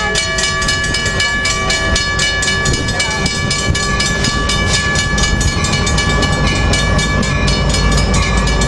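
Amtrak Surfliner train led by an F59PHI diesel locomotive rolling into the station. Rapid, even clicking of wheels over the rail joints sounds over a steady high whine, and the diesel's low rumble grows louder over the second half.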